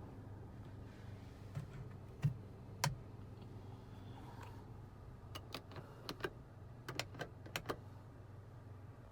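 Sharp plastic clicks of buttons and switches being pressed in a car's cabin: a few single clicks, then a quick run of about a dozen, over a steady low hum.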